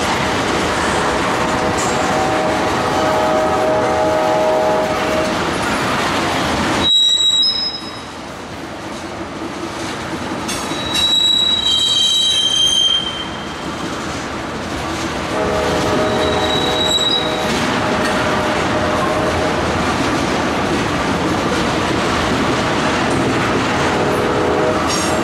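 Railroad tank cars of a freight train rolling past on steel wheels, a continuous rumble and clatter on the rails. Steady ringing tones come and go, with high squeals around the middle.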